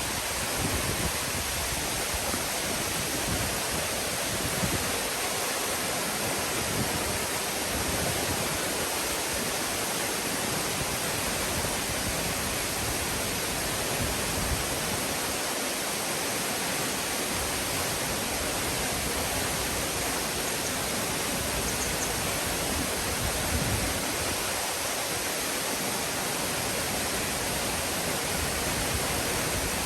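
Nunobiki Falls: the steady, even rush of a waterfall's falling water.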